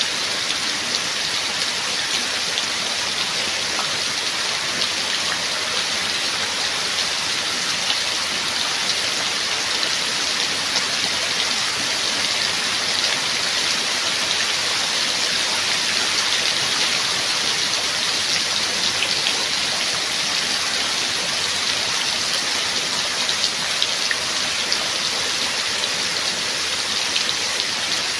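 Steady rain falling, a dense even hiss of drops with fine individual drop ticks.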